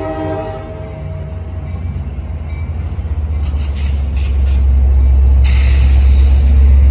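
The tail of a train horn cuts off about half a second in. Then the low rumble of an F59PHI diesel-electric locomotive grows steadily louder as it passes at departure speed, with a few clicks midway and a loud hiss joining about five seconds in.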